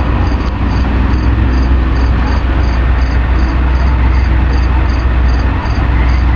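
An insect chirping in even, repeating high pulses, about two and a half a second, over a steady low rumble.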